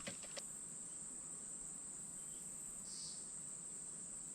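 Insects calling in a steady, high-pitched chorus, with a few faint clicks at the very start.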